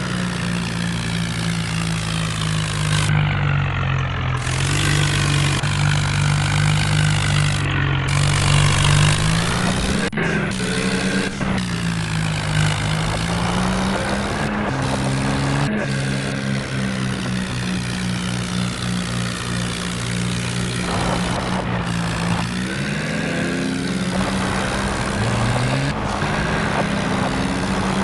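HMT tractor's diesel engine running steadily, its speed dipping and rising a few times.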